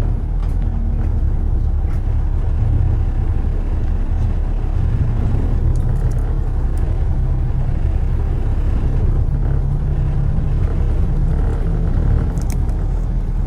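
Steady low rumble of road traffic and car running on the road, with a few faint ticks about halfway through and near the end.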